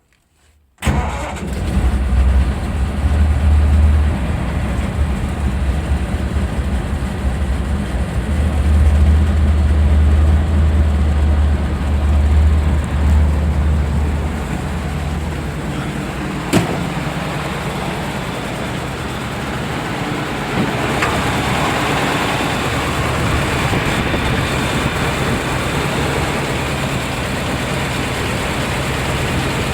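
A Ford V3000 truck's side-valve V8 starts about a second in and runs with a loud, uneven low rumble for roughly the first fourteen seconds. It then settles into a steadier idle. A single sharp click is heard partway through.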